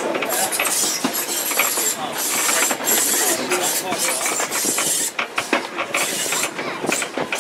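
Moving train heard from an open-sided carriage: the carriage rattles and clicks irregularly over a steady rushing noise as the wheels run along the track.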